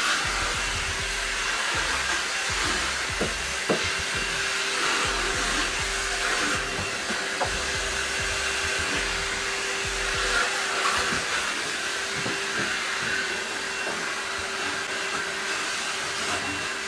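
Dirt Devil Reach Max Plus cordless stick vacuum running steadily with its crevice tool, a constant motor whine over a rush of air, with scattered clicks of debris being drawn in. The owner doubts it is doing much of a job of picking up the mess.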